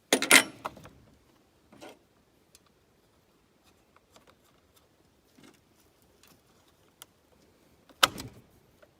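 Chainsaw chain clattering and rattling as it is handled and fitted onto the bar. There is a loud jingling clatter at the start, a shorter one about two seconds in, and another near the end, with faint small clicks between.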